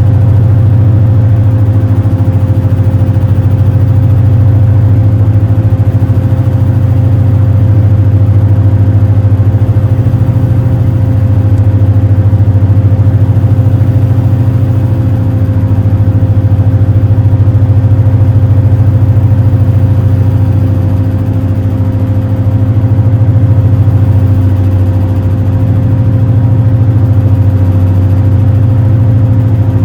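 Engines of the Super Jet high-speed passenger boat running steadily under way, heard on board as a loud low drone with a steady hum above it. The drone swells and eases slightly every few seconds.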